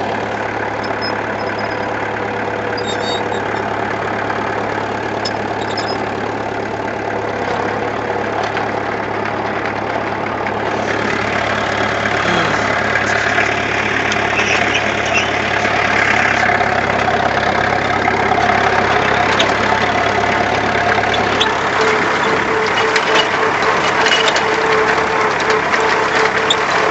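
Diesel tractor engine running steadily, getting louder about halfway through, with a change in its note about two-thirds of the way in.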